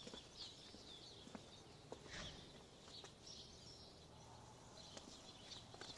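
Near silence, with a few faint, scattered bird chirps.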